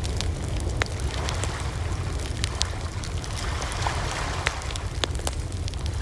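Campfire burning: wood crackling with many sharp, irregular pops over a steady low rumble.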